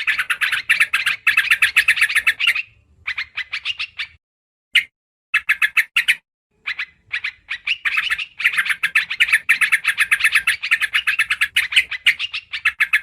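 Yellow-vented bulbul (trucukan) chattering: fast runs of short, bright, repeated notes broken by brief silent gaps, played as a bird-lure call recording.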